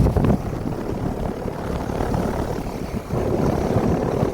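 Small Rheem air-conditioner condensing unit running in cool mode: the condenser fan blowing with a steady, uneven low rumble.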